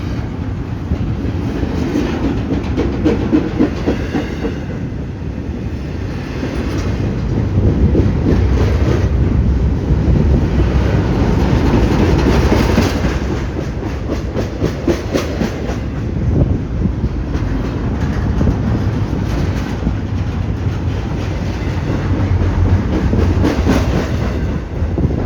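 Freight train of empty intermodal flatcars rolling past, a steady loud rumble with rapid clacking of wheels over rail joints and rattling of the bare cars.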